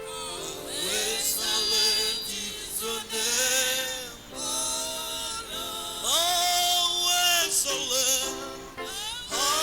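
Music with singing: several voices sing held, wavering notes in phrases of a second or two.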